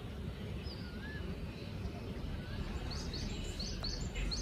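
Birds calling over a steady low rumble of outdoor background noise: a few wavering whistled notes in the first half, then a quick run of short, high chirps from about three seconds in.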